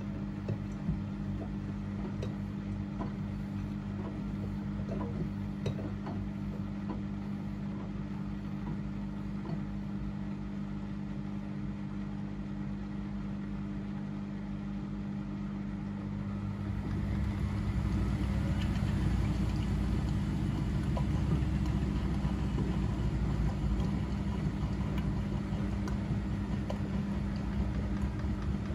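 Front-loading washing machines running an easy-care wash cycle: a steady hum throughout, with a louder low rumble setting in about two-thirds of the way through.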